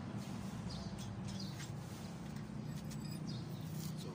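Faint short bird chirps, repeating every second or so, over a steady low hum, with a couple of light clicks about three to four seconds in.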